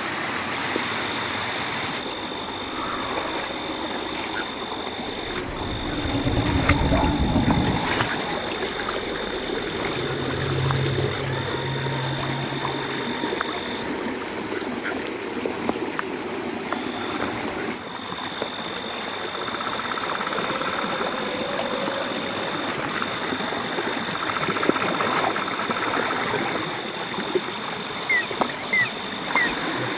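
Stream water running and trickling, with a thin steady high-pitched tone that cuts out partway through and comes back, and a heavy low rumble about seven seconds in.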